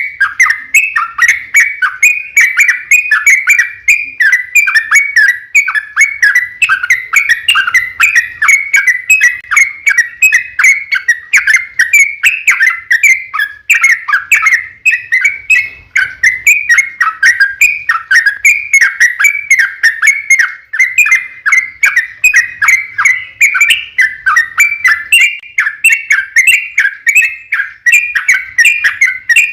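Yellow-vented bulbul (trucukan) singing a long, unbroken chattering song of fast, bubbly notes, several to the second, without pause.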